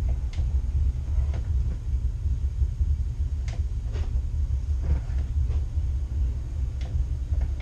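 Boat engine running underway, a steady low rumble with a few light knocks scattered over it.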